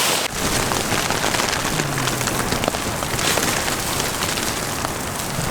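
Freezing rain and rain hitting a tent, a steady dense patter of many small ticks.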